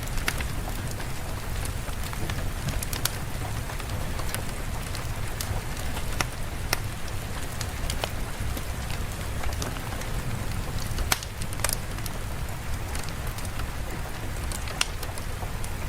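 Steady rain falling, with scattered sharp ticks and pops over the hiss.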